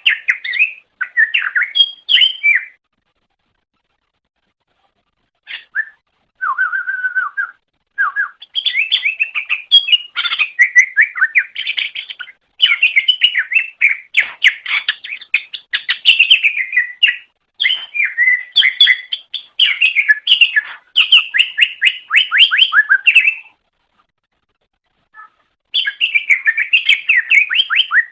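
Cucak ijo (green leafbird) singing loud, fast, varied song phrases of quick chirping and whistled notes. The song breaks off twice, about three seconds in and again near the end, then resumes.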